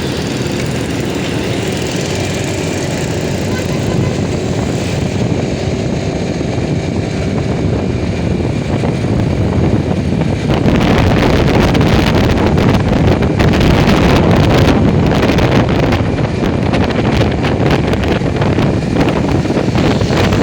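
Motorcycle running on the move, with wind buffeting the microphone. The wind gets louder and gustier about halfway through and covers the engine.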